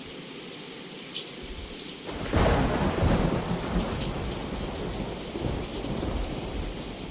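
Heavy rain falling steadily, then a thunderclap about two seconds in that breaks into a deep rumble and slowly dies away under the rain.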